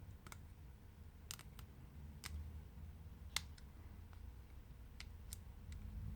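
Scattered light clicks and taps, about nine in all, the sharpest about three and a half seconds in, over a low steady hum: small tools and parts being handled while a Samsung Galaxy S7 Edge is taken apart.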